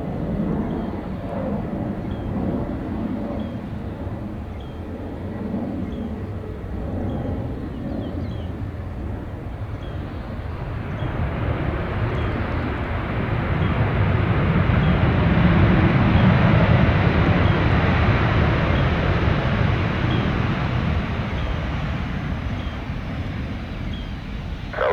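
Jet airliner engines rumbling as a plane passes. The sound swells from about halfway through, is loudest a few seconds later, then slowly fades.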